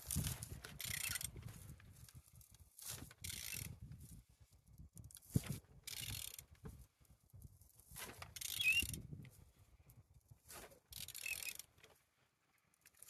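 A 32V25 engine being turned over by hand with a ratchet wrench on the crankshaft: a run of about seven ratchet strokes with clicking, one to three seconds apart, as the engine rotates. The engine turns freely.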